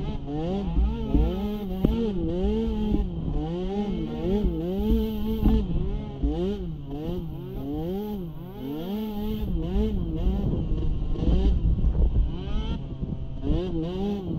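Small youth ATV engine, revving up and down over and over as the throttle is worked, its pitch rising and falling a little more than once a second.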